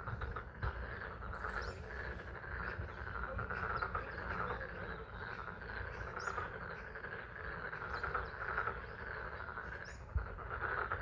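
Chorus of many frogs calling together at a pond in spring rain, a steady pulsing trill, with the patter of rain beneath and a couple of brief low thumps.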